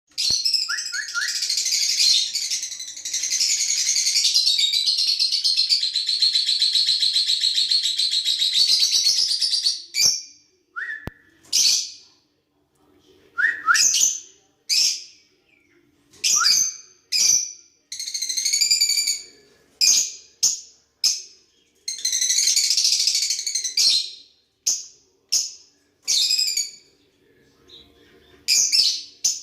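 Pet lovebirds chirping and chattering: a continuous high-pitched twittering for about the first ten seconds, then a run of separate sharp chirps with short pauses between them, and another burst of chatter about two-thirds of the way through.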